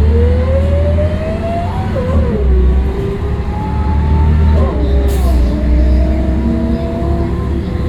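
Scania L113CRL bus's 11-litre six-cylinder diesel engine pulling away under load, its pitch rising and then dropping at gear changes about two seconds in and again near five seconds, over a heavy low rumble. A brief hiss about five seconds in.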